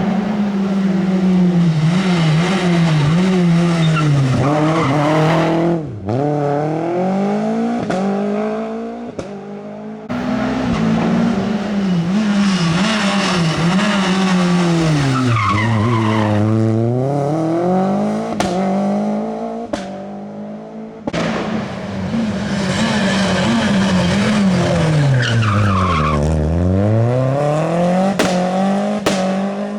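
Rally cars driven hard, one after another in three passes, each starting abruptly. The engine note drops sharply as the car brakes for a corner and then climbs again as it accelerates away.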